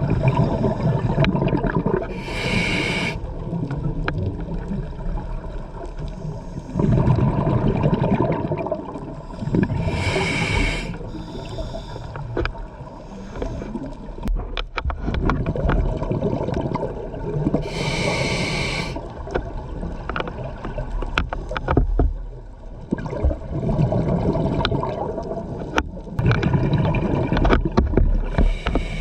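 Scuba diver breathing through a regulator, heard underwater: a short, high hiss about every eight seconds, with a long, low bubbling rumble between the hisses.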